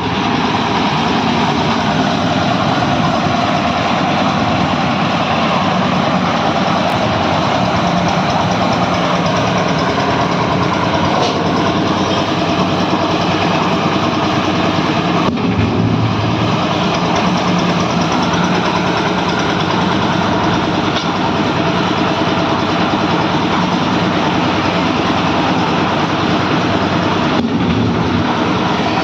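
One-bag hopper concrete mixer running on a trial, its engine going steadily with the drum turning, a loud even mechanical noise.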